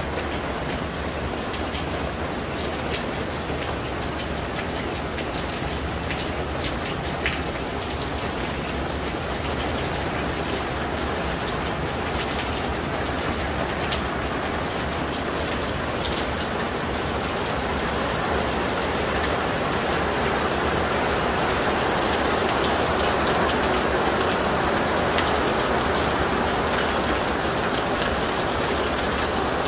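Steady rain falling on a paved courtyard, puddles and plants. It grows heavier in the second half.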